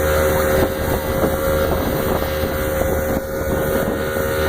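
A small watercraft engine running steadily at an even pitch, with wind rushing on the microphone.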